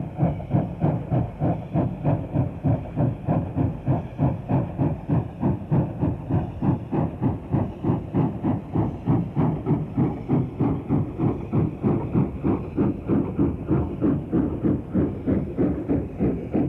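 Stanier Class 8F 2-8-0 steam locomotive working a freight train up a gradient, its chimney exhaust beating steadily at about two and a half beats a second.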